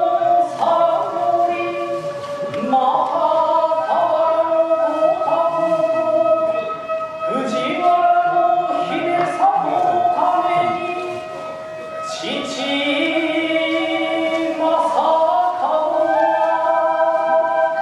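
Kagura performance music: singing or chanting in long held notes over the ensemble's accompaniment, with sharp percussion strikes now and then.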